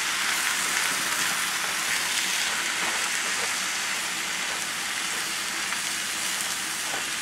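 Ground beef, rice and tomato mixture sizzling steadily in a hot cast iron skillet while it is stirred with a wooden spoon, with a few faint scrapes of the spoon against the pan.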